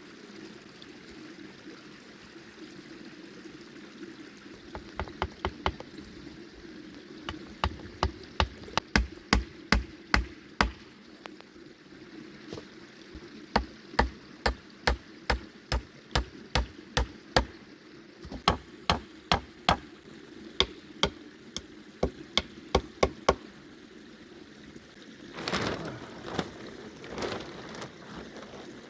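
Runs of sharp, regular knocks, about two a second, like a tool striking over and over, with pauses between the runs, over a steady rushing sound of rain.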